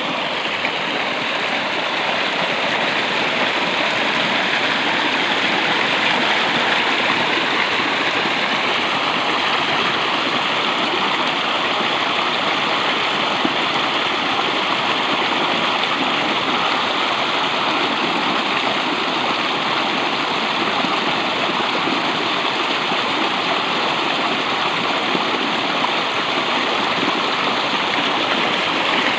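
Steady rush of flowing water, like a stream or waterfall, running without change.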